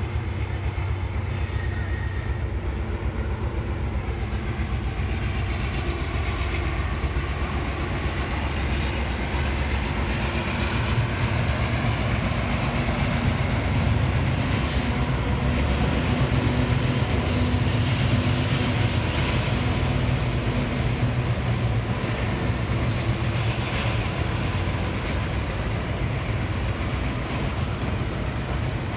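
Passenger train passing, a steady low rumble from the diesel locomotive's engine that is loudest about halfway through as it goes by, then the coaches rolling past on the rails.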